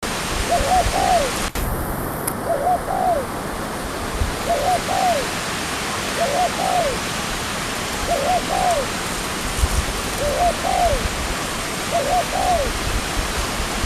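Spotted dove (tekukur) cooing: short coo phrases repeated about every second and a half, seven in a row, over a loud steady hiss.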